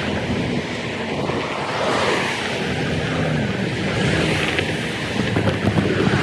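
Wind rushing over the microphone while riding, with a vehicle engine running underneath, its pitch wavering slightly.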